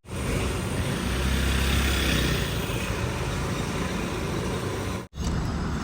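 Steady engine and road noise of a moving vehicle, with a low hum that eases after the first couple of seconds. The sound cuts out abruptly about five seconds in, then resumes.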